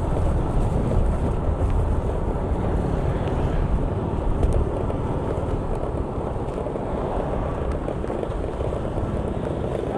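Steady rumble of a moving vehicle, with wind rushing over the microphone.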